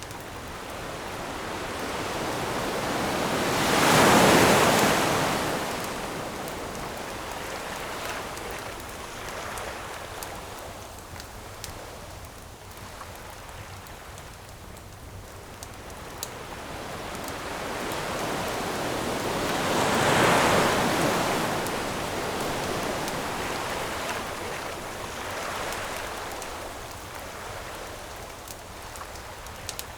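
Ocean surf washing on a shore, with two large waves breaking, one about four seconds in and one about twenty seconds in, each swelling up and then fading into a steady wash. A few faint sharp pops of a wood campfire crackling are heard here and there, mostly near the end.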